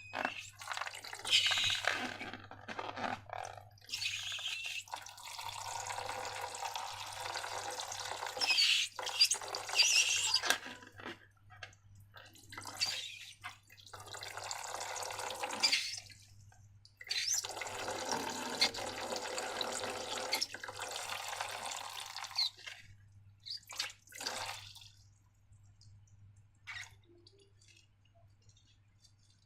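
Slime squelching and dripping in several wet stretches of a few seconds each, going faint after about 25 seconds, over a steady low hum.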